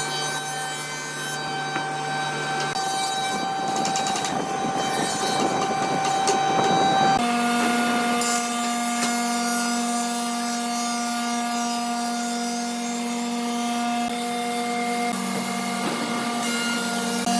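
Wood being worked by hand or with tools, a scraping, sawing or rubbing noise, over a steady hum of several held tones. The hum changes pitch about seven seconds in.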